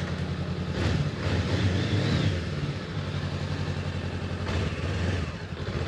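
Honda CB500X's parallel-twin engine running at idle, with a brief rise in revs about a second in.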